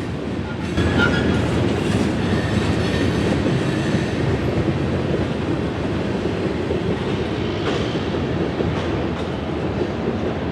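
CSX local freight train rolling past: a steady rumble of wheels on the rails, with a few faint clicks.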